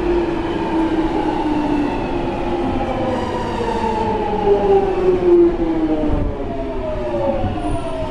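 Jubilee line 1996 Stock train's traction motors whining over the rumble of the wheels, the whine falling steadily in pitch as the train slows down.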